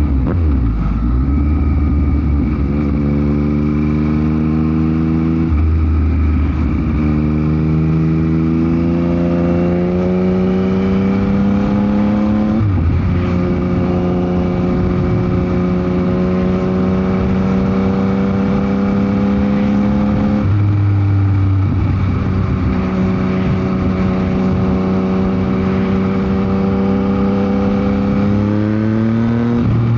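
Yamaha MT-09 SP's inline three-cylinder engine through a Dominator GP aftermarket exhaust, riding under power: the pitch climbs and drops back with each upshift several times in the first half, holds steady at a cruise from about 13 s on, and climbs again near the end.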